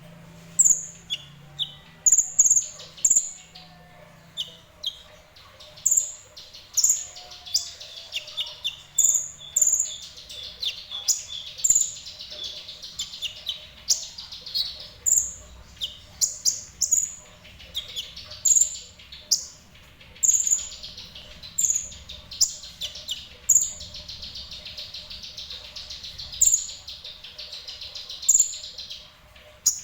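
A sunbird, the 'kolibri ninja' of Indonesian bird-keeping, calling actively ('semi gacor'): sharp high chirps about once or twice a second, with short fast trills in between.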